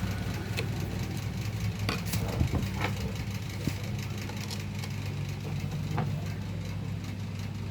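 Electric table fan motor running with a steady low hum, with a few short clicks or knocks about two to three seconds in and again near six seconds.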